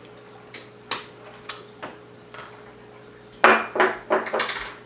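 A pointed tool clicking and tapping on a laptop's plastic screen bezel, then a short run of louder scraping strokes about three and a half seconds in, as the sticky rubber screw covers are picked out.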